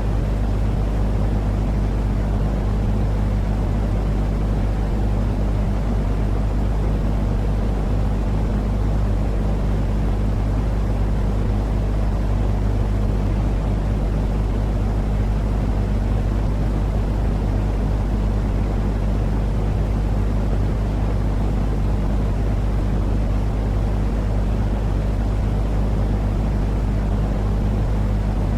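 Steady sleep-aid noise for calming babies: an unchanging, deep rumbling hiss with a low hum under it, like an engine drone.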